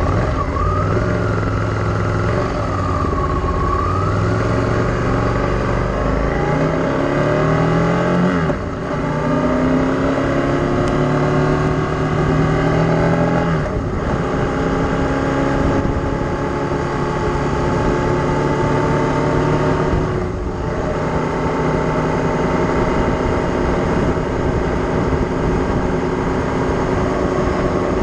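Vehicle engine running under load while accelerating: its pitch climbs, then drops sharply three times as it shifts up through the gears, and holds steadier after the last shift.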